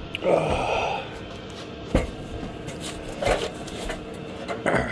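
Handling noises in a small camper: a rustle near the start, then a sharp knock about two seconds in and a couple of lighter knocks, over the faint steady hum of a running diesel heater.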